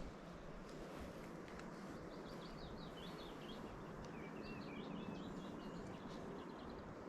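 A small bird singing a run of quick, varied high chirps from about two seconds in until past the middle, over a steady low background hiss of outdoor ambience.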